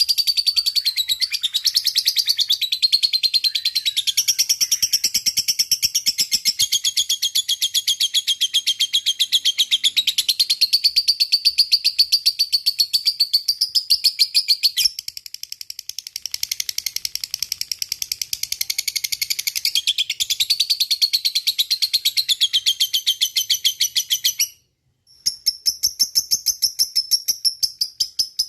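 Lovebird giving its long, unbroken 'ngekek panjang' chatter: a very fast, high-pitched run of chirps that goes on for over twenty seconds, dips a little about halfway, and breaks off near the end. In the last few seconds a steadier high pulsing chirp takes over.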